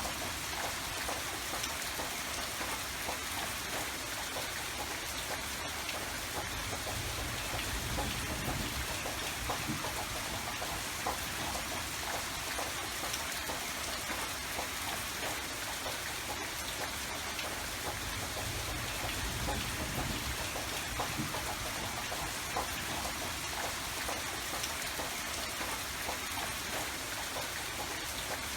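Steady rain falling, a dense patter of drops over a soft low rumble.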